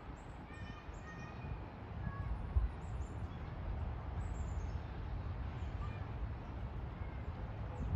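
Scattered faint bird chirps, a few short calls clustered in the first second and more near the middle, over a steady low rumble.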